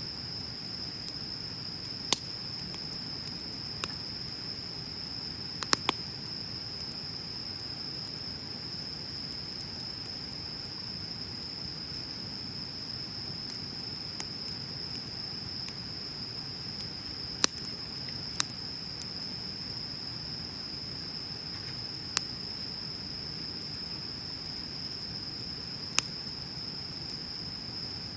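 Bonfire crackling, with about eight sharp pops scattered a few seconds apart over a low, steady rush of burning. Behind it, insects trill steadily at a high pitch.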